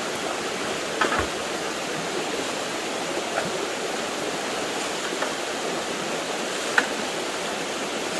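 Steady rush of flowing creek water, with a few faint clinks and rustles from trash being picked up out of a fire pit.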